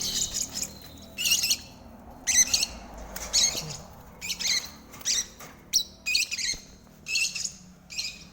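Lovebirds calling: short, high-pitched chirps and squawks repeated every half second to a second.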